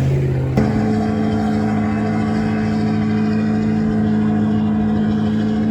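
Vehicle engine running at high revs. Its pitch wavers at first, then changes abruptly about half a second in and is held very steady.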